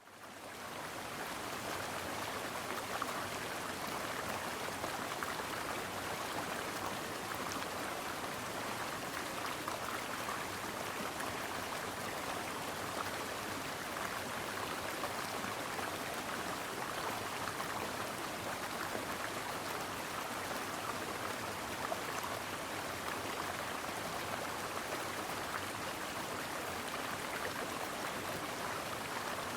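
Stream water flowing and burbling over rocks, a steady rushing sound that fades in over the first second and then holds even.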